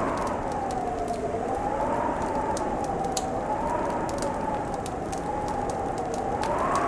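Wood fire crackling with scattered sharp pops over a steady hiss, under a wavering wind howl that slowly rises and falls in pitch.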